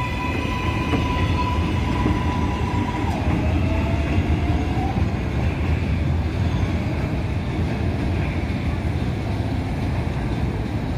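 New York City Subway R188 train running on the 7 line: a steady, loud rumble of wheels and cars on the rails, with a thin whine that drops in pitch about three seconds in.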